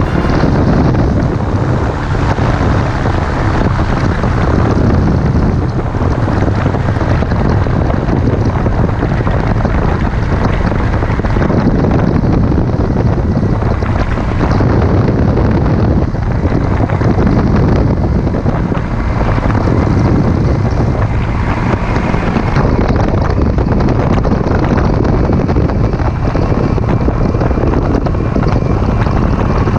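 Heavy wind noise buffeting the microphone, a loud, steady rushing rumble.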